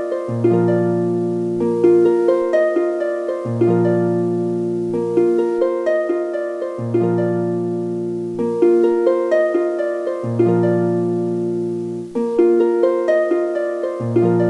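Background music: a gentle plucked-string melody of short, quickly fading notes over low bass notes that return about every three and a half seconds in a repeating loop.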